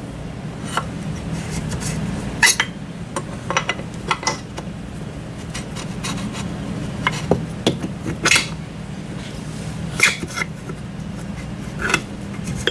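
Metal transmission parts clinking, knocking and scraping as they are handled and worked into place in the gearbox, with irregular sharp clicks over a steady low hum.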